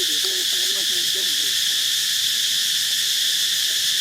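Steady, high-pitched chorus of insects such as crickets or cicadas, with faint voice-like sounds under it in the first second and a half.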